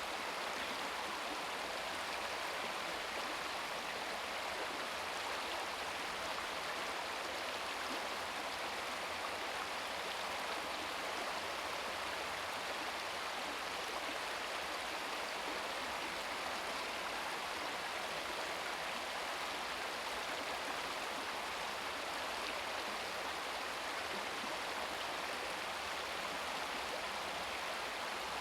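Babbling brook: water running and burbling over stones in a small stream, a steady even rush with no breaks.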